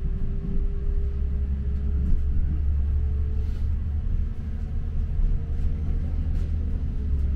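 Interior rumble of a moving diesel passenger train heard from a seat in the carriage: a steady low rumble with a constant hum above it and a few faint ticks from the wheels on the track.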